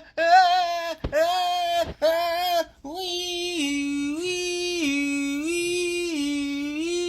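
A high-pitched voice gives a few short cries, then sings one unbroken tune that steps up and down between two notes.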